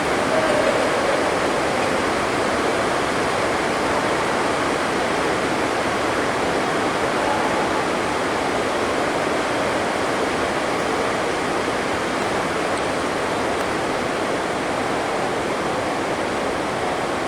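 Heavy rain drumming on a sports hall's roof: a steady, even rushing noise.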